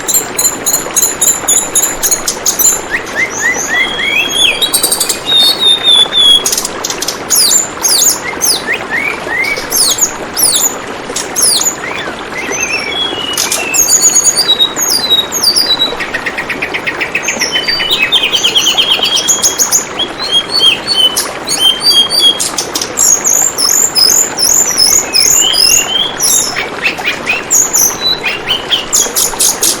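Tledekan bambu songbird calling non-stop in rapid high chirps, quick downslurred notes and short trills, over the steady trickle of running water.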